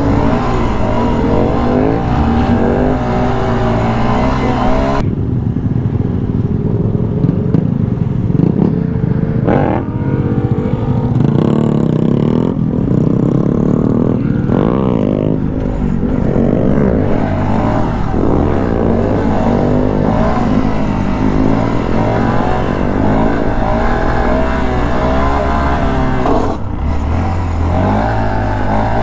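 Engines revving up and down over a steady engine drone, with motorcycles among them. The sound changes abruptly about five seconds in.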